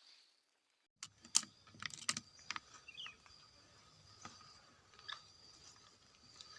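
A quick run of sharp clicks and crackles, loudest early on, then two more single clicks, over a steady high insect drone.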